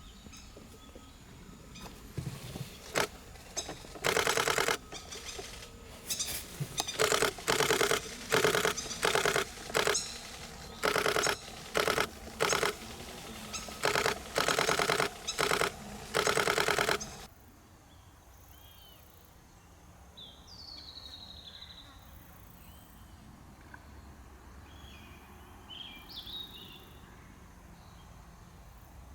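Nikon D500 shutter firing in a dozen or so rapid continuous-shooting bursts, each a quick rattle of clicks lasting under a second. The bursts stop about two-thirds of the way in, leaving a few faint bird chirps.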